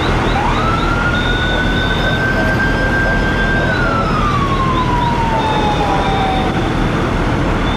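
A siren winds up quickly, holds one high note for about three seconds, then slowly falls away. Under it runs the steady low rumble of engines running at the fire scene.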